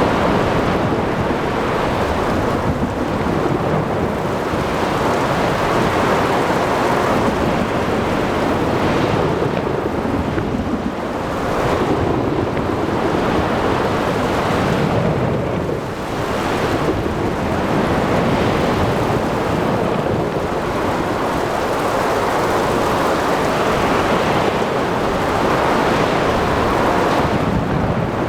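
Thunderstorm at sea: rolling thunder over steady rain and wind, with waves washing in, the whole sound swelling and easing every few seconds.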